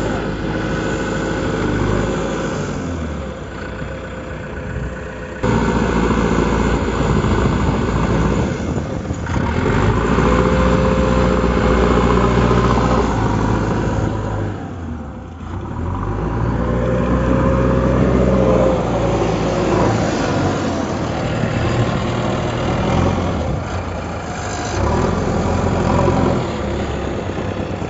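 JCB 3DX backhoe loader's diesel engine running while it works, revving up and easing off several times as the hydraulics are loaded.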